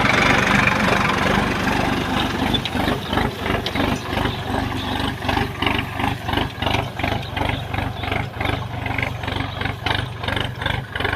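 Diesel engine of a Sonalika DLX RX 50 4WD tractor running. It is loudest in the first two seconds, then settles into an even, pulsing beat.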